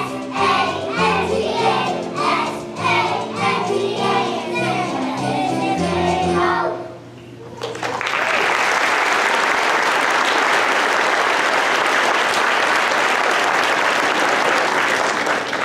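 Young children's choir singing with musical accompaniment; the song ends about seven seconds in, and after a brief pause the audience applauds steadily to the end.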